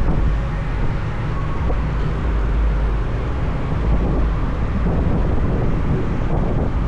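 Motorbike riding at speed: a steady rumble of engine and road noise with wind buffeting the microphone.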